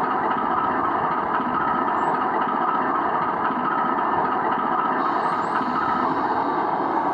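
ESU LokSound decoder playing a GE Dash-9 diesel locomotive's engine sound through the G scale model's speaker, a steady drone as the model runs along the track.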